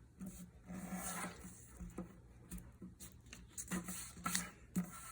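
A fingernail rubbing along a fold in a sheet of paper to crease it flat, with repeated scraping strokes and a few short paper crackles and taps.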